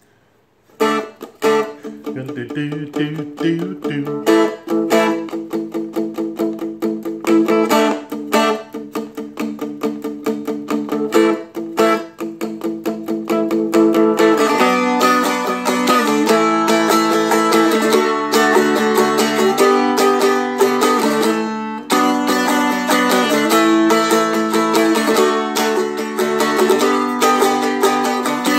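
Seagull Merlin strumstick strummed: palm-muted, choppy chord strums at first, opening into fuller, more ringing strumming about halfway through.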